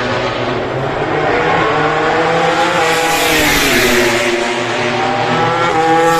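MotoGP race motorcycles (1000cc prototype engines) at speed on track. The engine note climbs for about two seconds, drops about three seconds in, climbs again and drops once more near the end, as the bikes shift, brake and pass.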